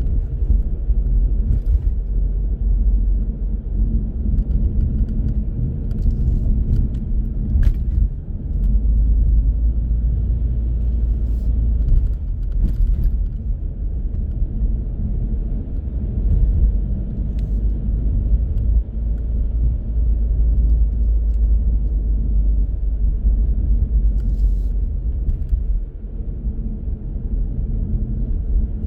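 Steady low rumble of a car driving along a road, engine and tyre noise, with a few faint clicks.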